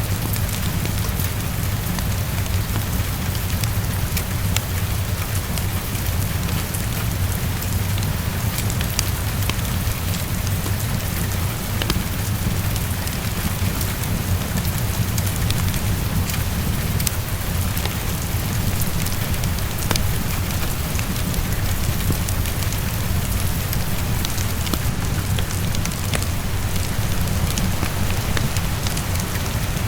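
Steady heavy rain against a window, with a constant low rumble underneath and scattered sharp ticks and crackles from a fireplace mixed in.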